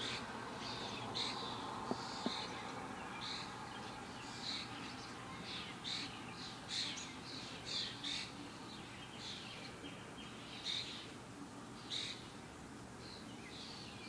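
Small backyard songbirds chirping, short high calls repeated every half second to a second. Two sharp clicks about two seconds in.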